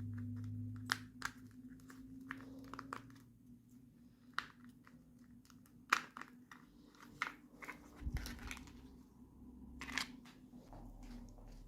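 Toy packaging and small plastic pieces being handled during an unboxing: scattered sharp clicks and taps with some crinkling and tearing, over a faint low hum.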